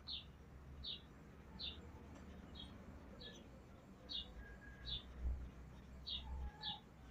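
A small bird chirping repeatedly, a short, slightly falling chirp roughly every three-quarters of a second, over a faint low rumble.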